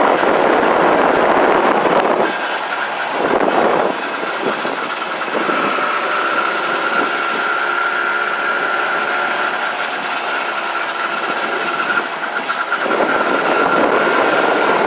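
Small gasoline engine of a motorized bicycle running under way, a steady high whine through the middle of the stretch. Loud rushing noise covers it for the first couple of seconds and again near the end.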